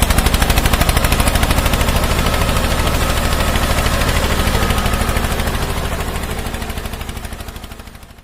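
Tractor engine chugging with a fast, even beat of about a dozen pulses a second, fading away over the last few seconds and cutting off.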